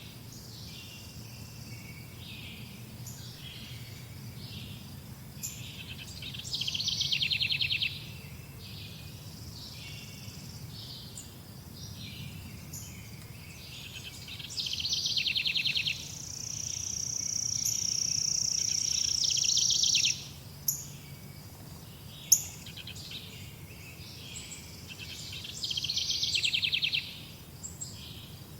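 Songbirds chirping, with a fast, high trill lasting a second or two that comes back about every eight to ten seconds. A long, steady high note sounds for about four seconds in the middle, and a single sharp click comes shortly after. A steady low hum runs underneath.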